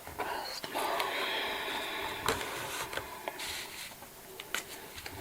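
Cash register keys and mechanism clicking and rattling, with several sharp clicks spread over the few seconds.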